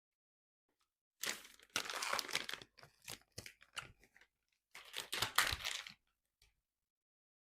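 Food packaging being torn open and crinkled: a burst of tearing about a second in, scattered crackles, then a second burst of tearing around five seconds.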